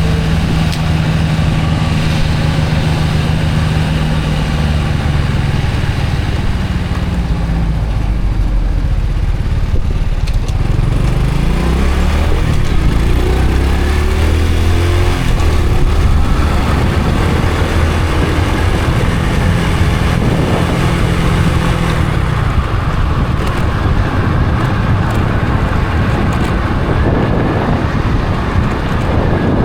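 Honda Supra X 125 FI motorcycle's single-cylinder four-stroke engine running on the move, its pitch steady, then dropping as the bike slows and climbing again in repeated rises as it accelerates through the gears.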